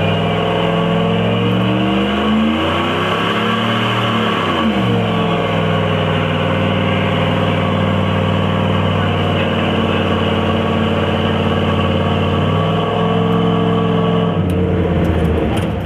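1996 Dodge Ram pickup's engine held at high revs during a one-wheel burnout, spinning a rear tire. The revs climb over the first few seconds, dip briefly, then hold steady for about ten seconds before dropping near the end.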